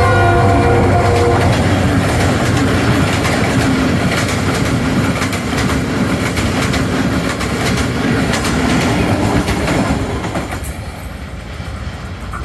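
Train running on the rails, its wheels clattering over the rail joints with a steady rumble. A short pitched tone ends about a second and a half in, and the rumble drops away about ten seconds in.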